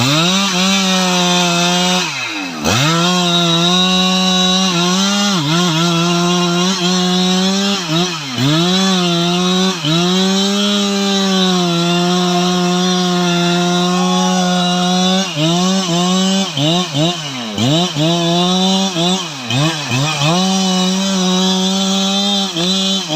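Stihl MS 881 two-stroke chainsaw running at high revs while cutting through a teak trunk. Its pitch dips and recovers again and again as the chain bogs under the cut, with the dips coming more often in the second half.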